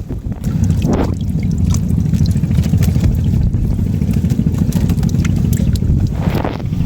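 Heavy wind rumbling on the microphone. Water splashes and pours about a second in and again near the end.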